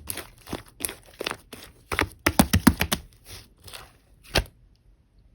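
Slime being squished and stretched by hand, making quick runs of crisp popping and crackling, then one last sharp pop.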